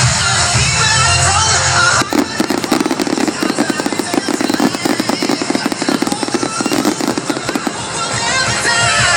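Loud show music, broken about two seconds in by a dense, rapid crackling of fireworks lasting some six seconds, with the music returning near the end.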